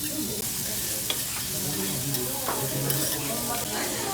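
Monjayaki batter frying and sizzling on a hot teppan griddle while it is stirred and scraped, with a few light ticks of a spatula against the plate.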